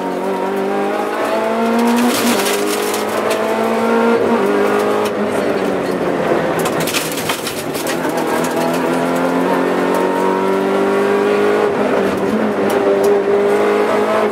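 Peugeot 106 S16 rally car's 1.6-litre 16-valve four-cylinder engine, heard from inside the cockpit at full speed. The revs climb and drop again and again as the car is shifted up and down through the gears between corners.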